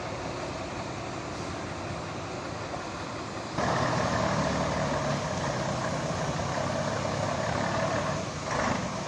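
Engine of a 1975 service truck running, stepping up suddenly and markedly louder about three and a half seconds in and holding there, with a brief dip and surge near the end.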